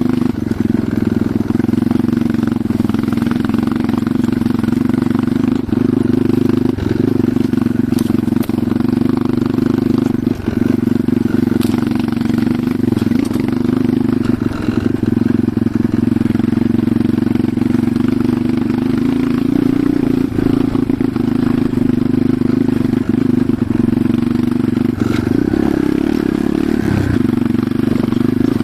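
Enduro motorcycle engine running steadily at an even speed, with a brief change in its low note about 25 seconds in.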